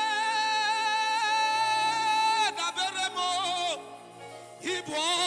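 Worship singing over sustained keyboard chords: a voice holds one long note with vibrato for about two and a half seconds, then falls into a short melodic phrase. There is a brief lull about four seconds in before the singing picks up again.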